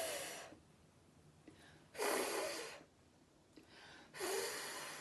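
A woman saying the phonics sound 'f' as a long unvoiced "fff" hiss, three times with pauses of about a second and a half between.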